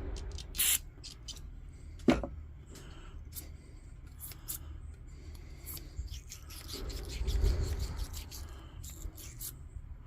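Small metal lantern parts being handled and worked by hand: scattered clicks and short scrapes, a sharp knock about two seconds in, and a longer stretch of rubbing about seven seconds in.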